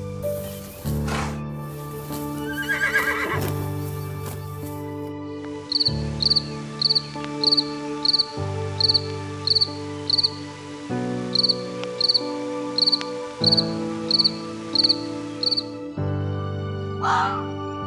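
Background music with an insect chirping over it in a steady series of short high chirps, about two a second, from about six seconds in until near the end.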